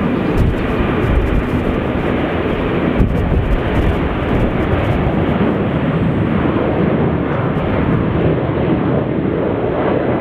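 Jet airliner engines running through the takeoff: a loud, steady rushing noise with no break.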